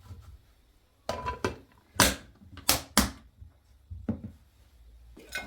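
A series of about seven sharp knocks and clatters at uneven intervals, like objects being set down or handled, the loudest two to three seconds in.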